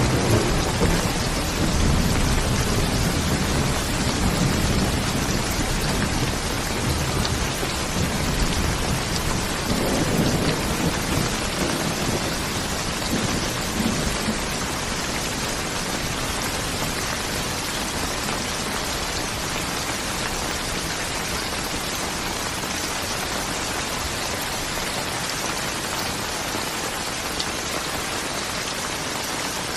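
Steady heavy rain falling, with a low rumble of thunder through the first half that dies away about halfway through, leaving an even hiss of rain.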